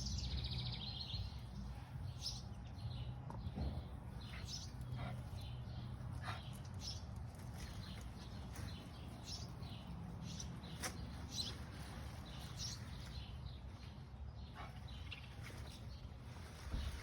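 Birds chirping in short, scattered calls, over a steady low background rumble.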